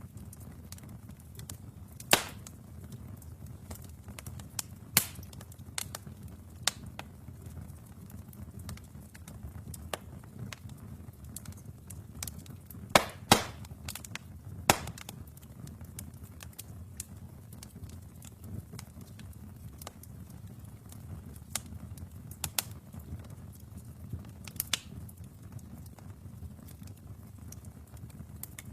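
Wood fire burning in a fireplace: a steady low rumble of flames with scattered sharp crackles and pops from the burning logs, the loudest a cluster of pops about halfway through.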